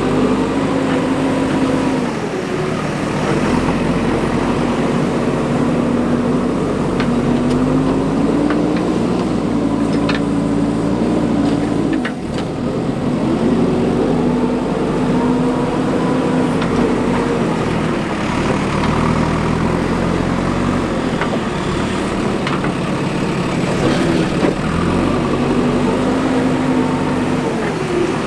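Diesel engine of a JCB 3DX backhoe loader running and revving up and down in repeated cycles as the machine works, with a couple of sharp knocks about halfway through.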